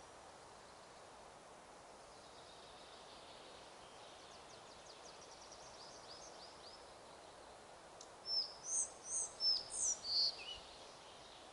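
Forest ambience: a steady rush of wind, with a bird giving a fast, faint trill in the middle and then a run of sharp, high, falling chirps near the end.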